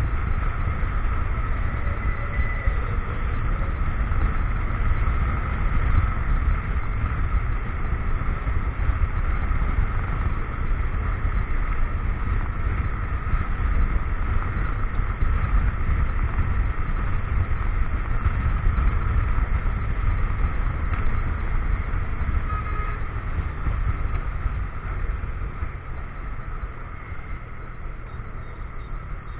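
Motorcycle engine running steadily under way, with a heavy low wind rumble on the camera microphone; it grows a little quieter in the last few seconds.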